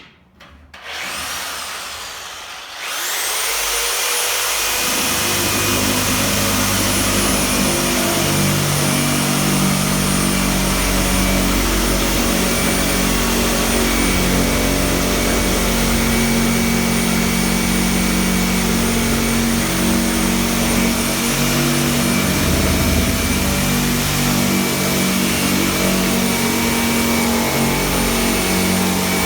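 A motor-driven machine starting up about two seconds in, then running loud and steady with a high whine over a shifting low hum.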